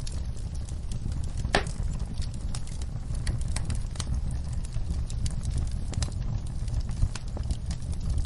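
Wood fire crackling, with irregular snaps and pops over a steady low rumble; one sharper pop comes about a second and a half in.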